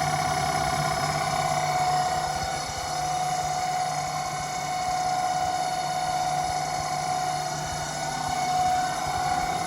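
Homemade CNC lathe running: a steady high motor whine over a low hum, swelling and dipping slightly in level.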